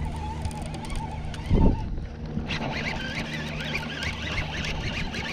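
A boat motor runs with a steady low hum. A loud thump comes about a second and a half in, and high chirping starts halfway through.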